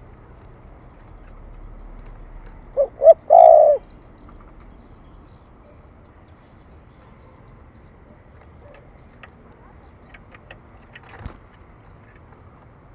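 Spotted dove giving one loud cooing phrase about three seconds in: two short coos and then a longer one. This is the call bird keepers play to stir up and train decoy doves.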